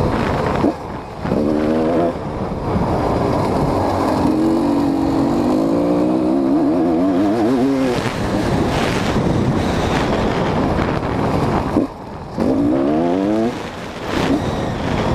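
GasGas EC 250 single-cylinder two-stroke dirt bike engine being ridden hard, revving up repeatedly with the pitch climbing, and the throttle briefly closing about a second in and again near twelve seconds, over wind noise.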